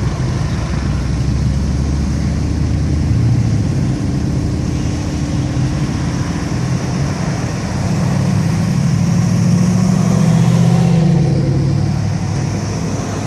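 Classic cars cruising past at low speed, engines running with a low, steady sound; one car passes closer and louder between about eight and eleven seconds in.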